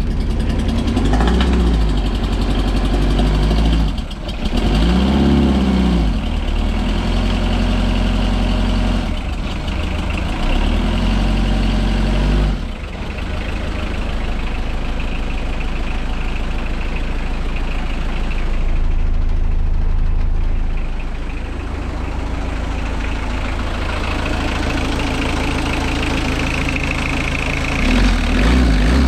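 Peugeot 205's 1.9-litre four-cylinder diesel running after nine months unused. It is revved briefly a few times early on, then settles to a steady idle, with one more short rev near the end.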